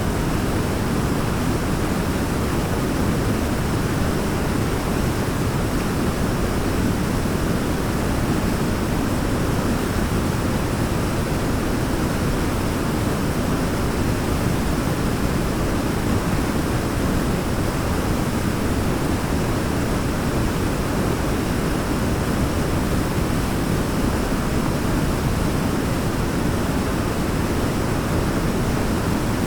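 Waterfall rushing steadily: an even, unbroken roar of falling water, heaviest in the low end.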